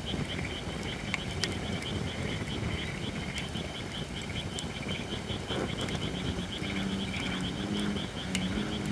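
Holly-wood campfire crackling with a few sharp pops, over a steady, fast-pulsing high chirring chorus. From about six and a half seconds in, a low droning animal call with several tones, which the uploader takes for a bullfrog.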